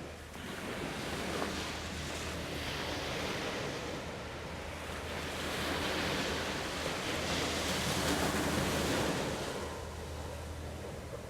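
Wind and waves at the water's edge: an even rushing noise that swells and eases every few seconds, with a steady low hum underneath.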